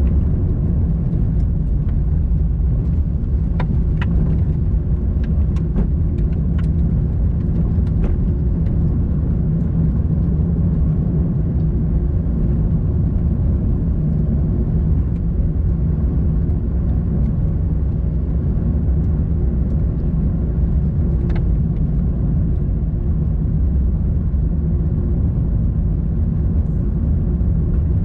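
Car driving along a road: steady low rumble of engine and road noise, with a few faint ticks, mostly in the first third and once more later.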